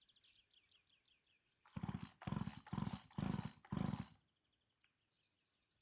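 Four short, loud animal calls in quick succession, about half a second apart, beginning just under two seconds in. Before them, faint high-pitched chirping trills.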